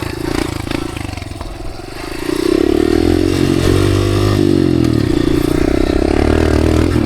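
Dirt bike engine running under the rider, quieter for the first two seconds, then opening up louder. About four seconds in its pitch dips briefly and climbs again.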